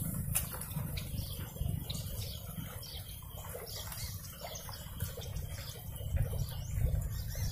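Small birds chirping in short, scattered calls over a low steady rumble.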